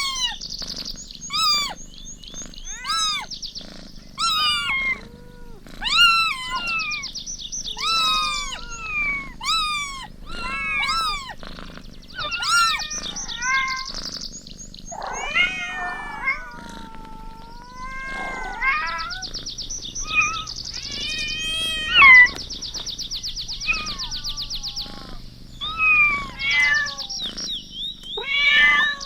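Kittens mewing over and over in short, high calls that rise and fall, some overlapping, with a steady high buzzing trill behind them at times.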